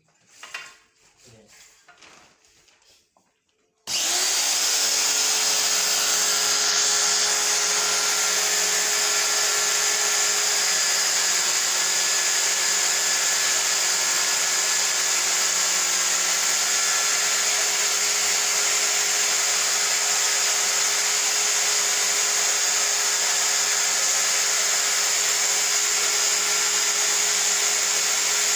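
A motor-driven machine switches on abruptly about four seconds in and runs steadily: a hum under a strong hiss.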